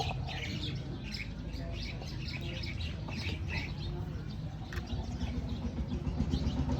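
Small birds chirping repeatedly over a low steady rumble.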